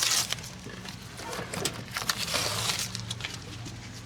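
Tape being peeled off a surface, two ripping bursts, one at the start and one a little past the middle. A steady low hum runs underneath.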